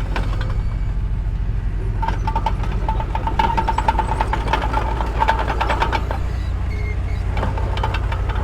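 Mini bulldozer's engine running steadily under load, with rapid metallic clicking and clanking throughout. A high pitched squeal pulses quickly between about two and six seconds in.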